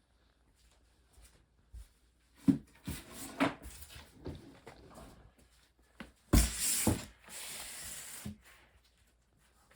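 Knocks of foam-backed wooden subfloor tiles being handled and set down, with a hard thud about six and a half seconds in, followed by about a second of steady scraping as a panel slides over the floor.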